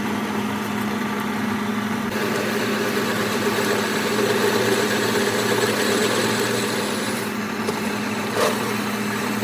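A machine running steadily with a low hum, and a single short knock about eight and a half seconds in.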